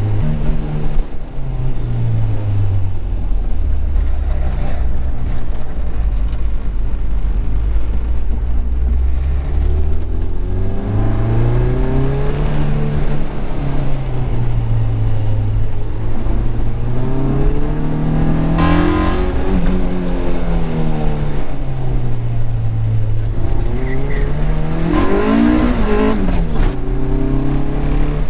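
Honda four-cylinder engine heard from inside the moving car, its pitch rising and falling several times as the car speeds up and eases off, over steady road noise.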